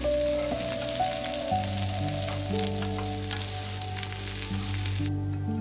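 Chopped onions and green chillies sizzling in hot oil in a non-stick pan, stirred with a spatula, with small clicks through the hiss. The sizzle cuts off suddenly about five seconds in. Background music with held notes plays underneath.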